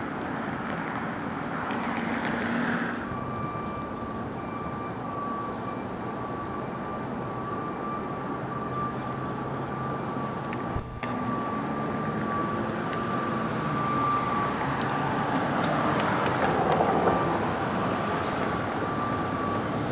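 A McNeilus front-loader garbage truck running steadily. About three seconds in, a thin, high, steady whine joins the engine sound.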